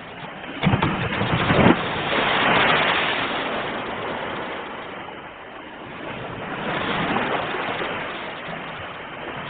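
Sea waves breaking on a shore. A wave crashes heavily about a second in, and its wash swells and then fades. Another, softer surge rises just past the middle.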